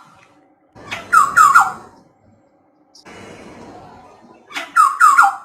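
Black-hooded oriole calling: two short phrases, one about a second in and one near the end, each of three quick notes that slide downward.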